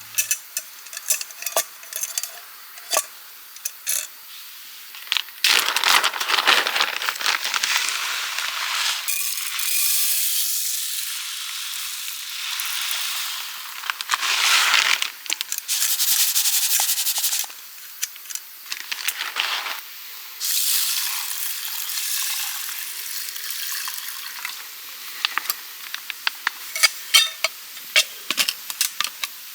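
Food sizzling and spitting in a hot pan, in bursts of a few seconds that stop and start again, with scattered pops and crackles between them.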